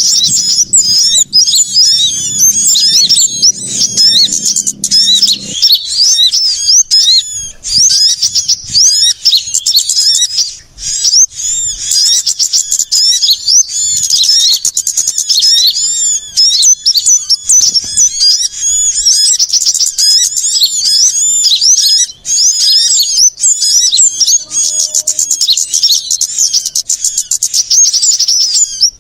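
Many small songbirds chirping rapidly and continuously, overlapping in an agitated chorus of high notes: a bird-luring recording of excited small-bird calls. A faint low hum sits beneath the chirping and stops about five seconds in.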